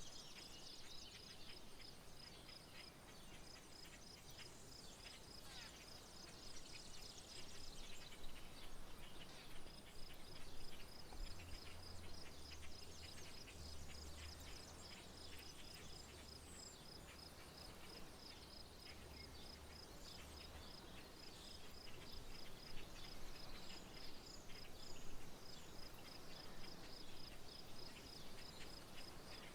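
Outdoor rural soundscape: an insect trills in a steady stream of even, rapid high pulses, with scattered bird chirps above it. A faint low rumble comes in for several seconds in the middle.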